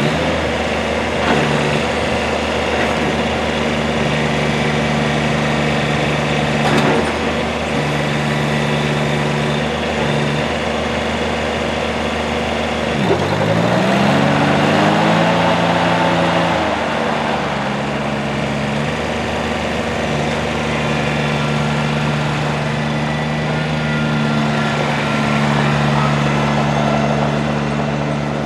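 Kubota BX1860's three-cylinder diesel engine running steadily. About halfway through, its speed drops, climbs back up over a few seconds and holds higher briefly, then settles back to the earlier steady speed.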